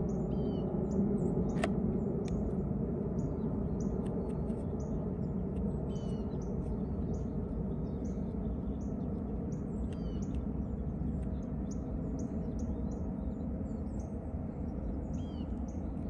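Many short, high, thin bird calls, scattered all through, over a steady low outdoor rumble.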